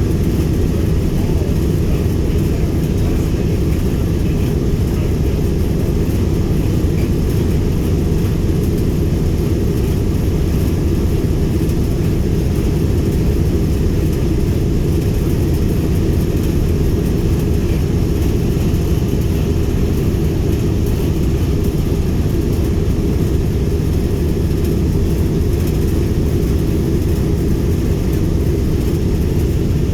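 Wright R-1820 Cyclone nine-cylinder radial engines of a Boeing B-17G Flying Fortress running steadily with a deep, even drone.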